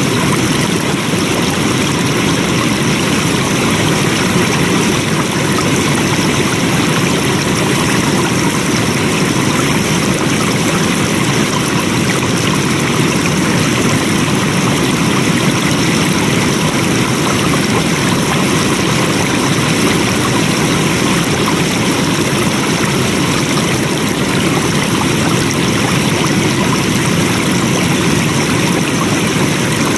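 Flowing stream water rushing steadily, an even, unbroken wash of noise.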